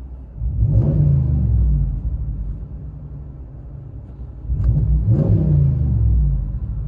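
2021 Ram 1500's 5.7-litre Hemi V8 through a B2 Fabrication muffler and resonator-delete dual exhaust, heard from inside the cab. It is revved twice, about a second in and again around five seconds, and drops back to idle in between.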